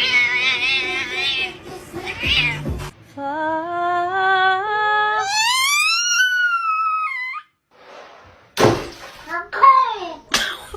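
A cat meowing and yowling: a wavering cry at the start, then a long drawn-out call that climbs and falls. Near the end come two sharp thumps with short meows between them.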